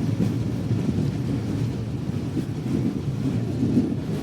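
Passenger train running along the track, a steady low rumble of wheels on rails heard from on board.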